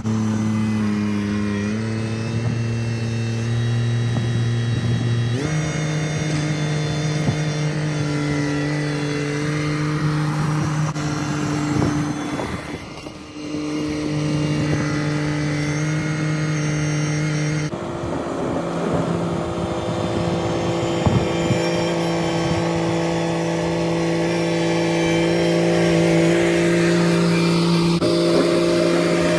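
Kubota compact tractor's diesel engine running steadily under work, its pitch stepping up or down abruptly a few times, with a brief dip about 13 seconds in.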